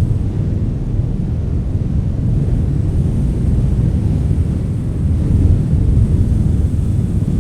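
Wind blowing, a deep, steady rumble that swells slightly about five seconds in.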